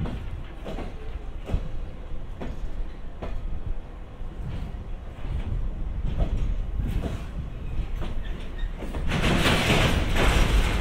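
A train rolling slowly past, its wheels clacking over rail joints at a slow, regular pace over a low rumble. Near the end a louder rushing hiss swells up.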